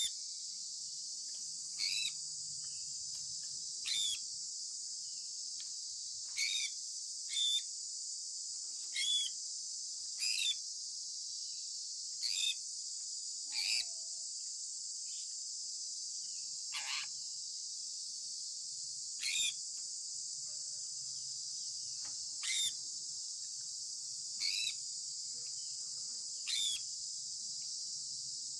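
Sun conure giving short chirps, each sliding down in pitch, one every one to three seconds, over a steady high-pitched hiss.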